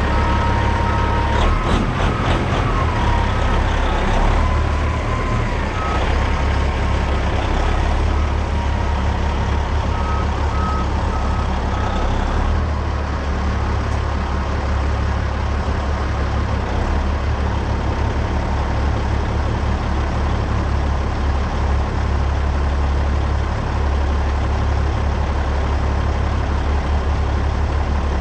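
Loaded dump truck's diesel engine running steadily with a deep hum. A backup alarm beeps repeatedly for about the first twelve seconds, then stops.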